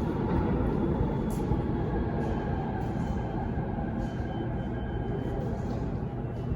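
New York City subway train running on the track, heard on board: a steady rumble of wheels and car, with a faint high whine in the middle.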